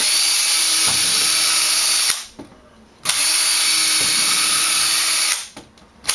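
Power drill pre-drilling screw pilot holes into wood. It runs in two bursts of about two seconds each with a short stop between, then starts again at the very end.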